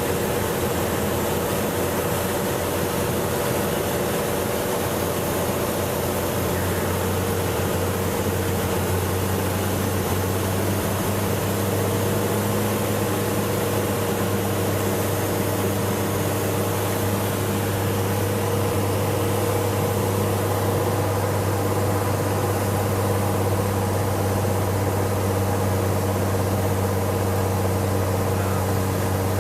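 Cessna 182's single piston engine and propeller running steadily in flight, a constant drone with a hiss of airflow over it.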